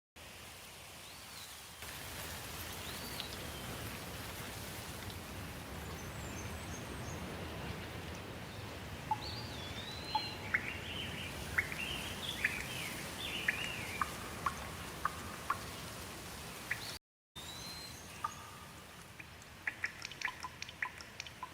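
Steady rain, with birds chirping repeatedly through it in the middle. After a short break near the end, water drips in quick, sharp drops.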